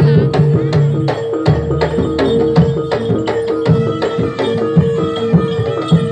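Live Javanese jaranan accompaniment: hand-drum strokes in a quick, steady beat, about three a second, over a steady held note and other pitched percussion.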